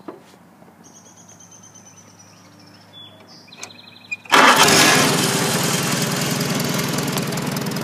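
Farmall Super A tractor's four-cylinder gasoline engine being started: about four seconds in it fires and catches at once. It then runs loudly and steadily, settling down a little, in good running order.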